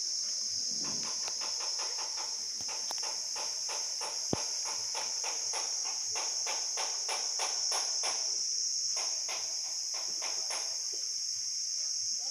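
Steady high-pitched insect drone, with a run of rapid ticks at about three a second layered over it from about a second in until near the end, and one sharp click about four seconds in.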